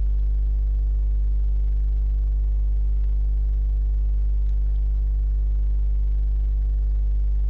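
Steady low electrical hum with a stack of overtones, unchanging throughout, like mains hum on the recording.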